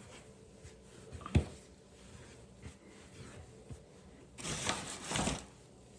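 Hand-kneading dumpling dough on a floured counter: a single sharp thump of the dough against the surface about a second and a half in, then a brief double rush of rubbing and scraping near the end.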